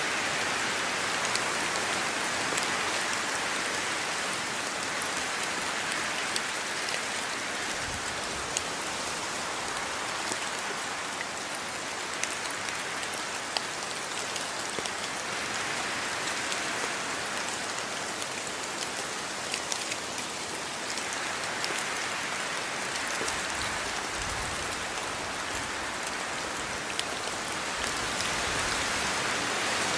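Steady rain falling, an even hiss with many individual drops ticking sharply on surfaces.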